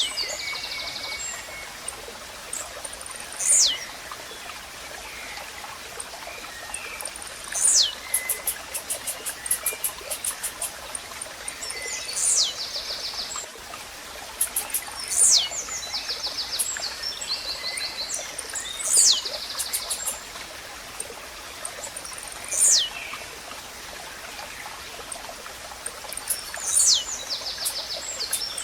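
Blue-black grassquit (tizil) repeating its short, sharp song note, a quick falling sweep, seven times about every three to four seconds. Between the notes there are runs of fast high ticks over a steady background of nature noise.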